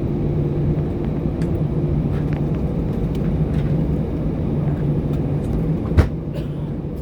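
Airbus A320 cabin noise while taxiing: the engines' steady rumble and hum heard inside the cabin, with a single sharp knock about six seconds in.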